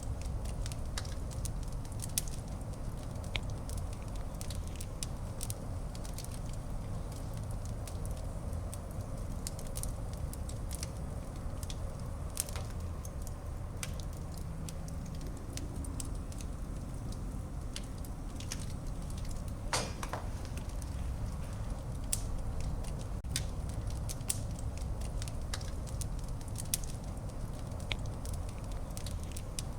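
Wood fire burning in a fireplace: a steady low rumble with scattered sharp crackles and pops, one longer snap about two-thirds of the way through.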